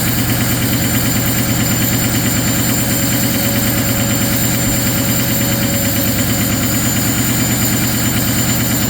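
Ford 6.0 Powerstroke V8 turbo-diesel warming up at a steady high idle after a cold start, with an even, fast diesel clatter.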